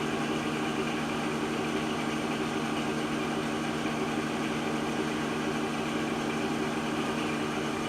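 The half-horsepower electric motor of a Falex lubricity testing machine running steadily with an even hum, spinning the test wheel through the sump so that it is coated with refrigerant oil.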